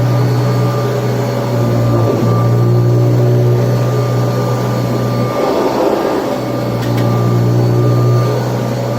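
Kirby Tradition upright vacuum cleaner running with a steady, loud motor hum. The hum wavers briefly about two seconds in, and midway turns into a rougher rush for about a second, then settles back.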